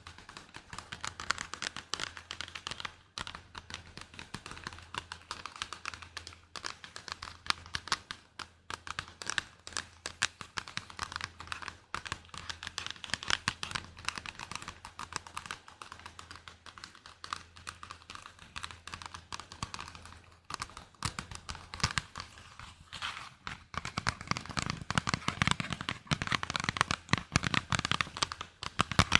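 Close-miked ASMR tapping: a dense, unbroken run of quick light taps and clicks, growing louder and fuller about three-quarters of the way through.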